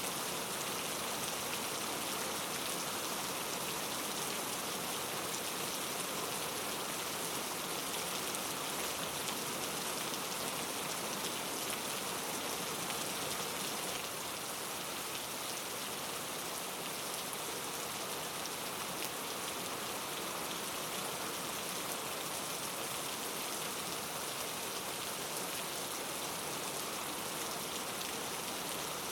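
Steady rain falling, an even hiss with fine patter of drops on a surface, dipping slightly in level about halfway through.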